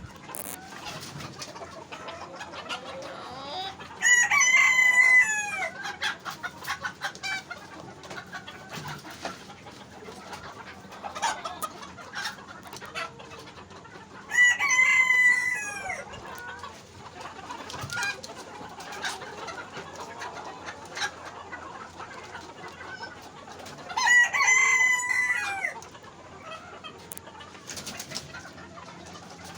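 Rooster crowing three times, each crow about a second and a half long and roughly ten seconds apart, with chickens clucking softly in between.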